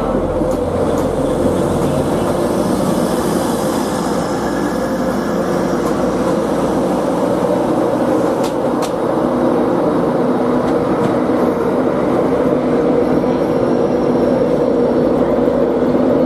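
Train running on the rails: a steady rumble with a constant hum, and a couple of short clicks about halfway through.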